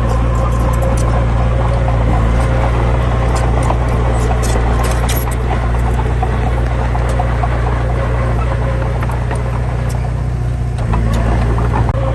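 Heavy diesel engine running steadily under a constant high whine, with scattered small clicks and rattles over it.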